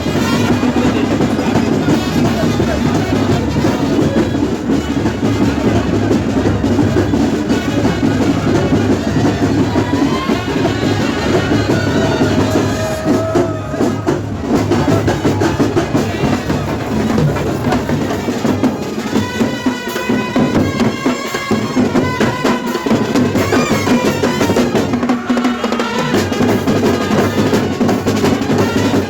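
Loud drum-led festival band music with dense, steady percussion throughout. A pitched melody line comes in over the drumming about two-thirds of the way through.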